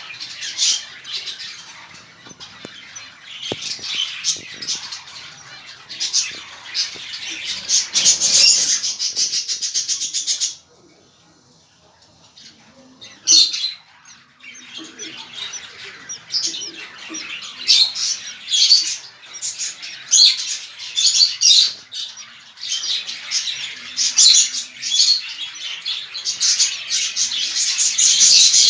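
Budgerigars chirping and chattering in rapid high-pitched runs, dropping away for a couple of seconds about ten seconds in, then starting up again.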